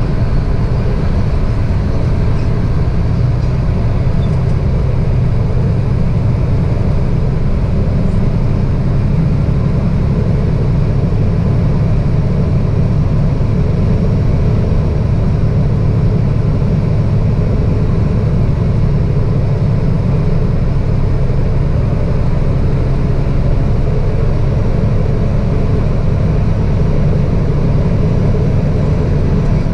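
Semi truck running steadily: an even, deep rumble of diesel engine and road noise that does not change.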